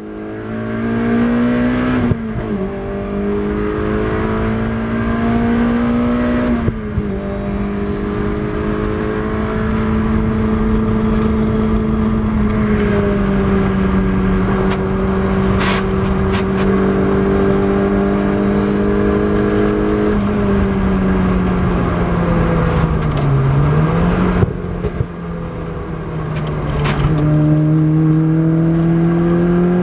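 Honda K24 inline-four with individual throttle bodies, in a Lotus Exige driven hard on track, heard from inside the car. The engine note climbs and drops back at two upshifts in the first seven seconds, holds high, then falls as the car slows about three-quarters through, and climbs again near the end.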